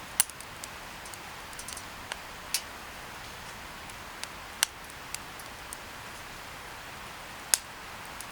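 Wood fire crackling: a steady hiss with scattered sharp pops and ticks, a few of them loud, at irregular intervals.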